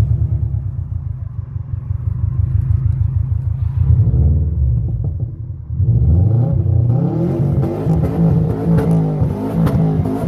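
Subaru Forester's fully forged flat-four boxer engine fires up with a sudden loud start and idles with a lumpy, pulsing throb through its small "pea shooter" exhaust. About six seconds in it is revved repeatedly in quick rises and falls.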